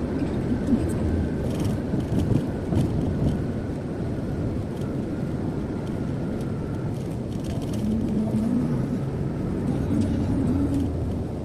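Steady road and engine noise of a car driving on a highway, heard from inside the cabin, with a few faint scattered clicks.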